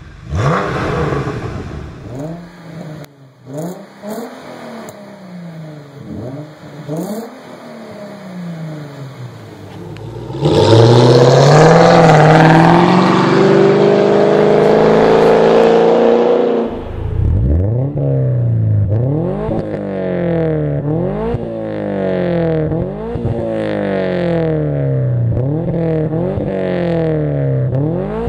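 Car engine with a modified exhaust being revved in place: short throttle blips about once a second, then a hold near high rpm for about six seconds that is the loudest part, then quick revs again, each rise and drop in pitch clearly heard.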